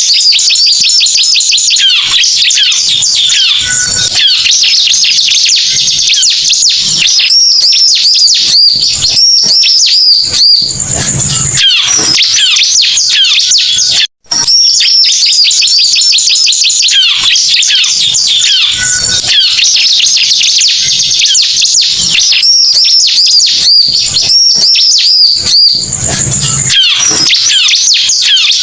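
Bar-winged prinia (ciblek) song used as a trapping lure call: a loud, unbroken stream of fast, high chirps and trills. The recording cuts out for an instant about halfway through.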